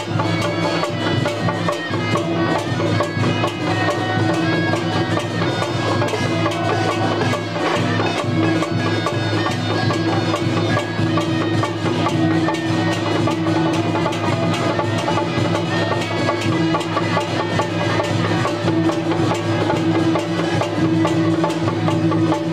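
Loud traditional temple-procession music: drums and wood-block clacks struck densely over steady, held pitched instruments, continuous without a break.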